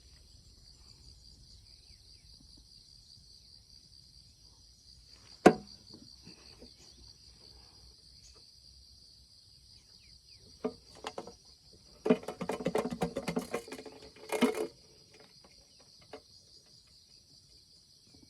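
A steady high-pitched insect chorus runs throughout. Close to the microphone, a sharp knock about five and a half seconds in, a few clicks near eleven seconds, and a louder stretch of rustling in the last third.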